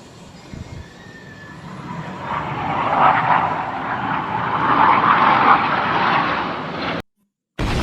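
Jet aircraft passing: a rushing noise that swells from about two seconds in, peaks midway and cuts off abruptly about seven seconds in.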